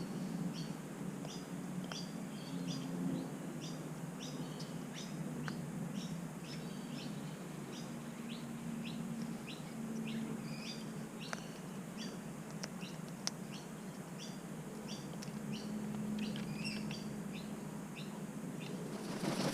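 A bird chirping over and over in short, thin, high chirps, about two or three a second, over a steady low hum.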